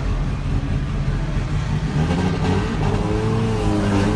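Race car engines on the circuit under a steady low drone. About halfway through, one engine can be heard rising and falling in pitch as it revs.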